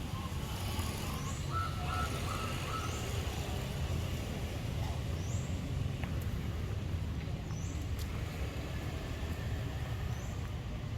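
Birds chirping: one bird repeats a short, high chirp every second or two, with a few lower chirps in the first couple of seconds, over a steady low rumble.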